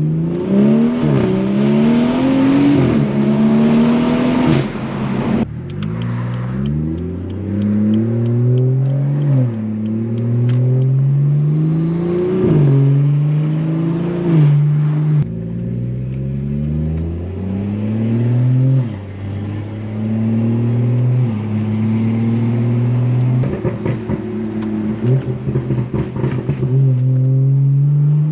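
Tuned BMW B58 3.0-litre turbocharged straight-six with a catless downpipe under acceleration, its revs climbing and dropping back repeatedly through the gears. A loud rushing sound under load in the first few seconds cuts off suddenly, and near the end a run of sharp crackles comes from the exhaust.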